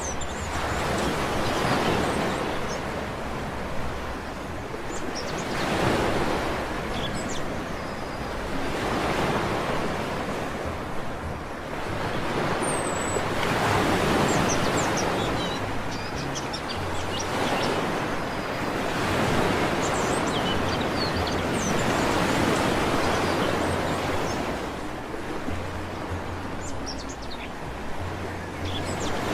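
Sea waves breaking and washing up a beach, the surf swelling and fading every few seconds, with short faint high bird chirps scattered throughout.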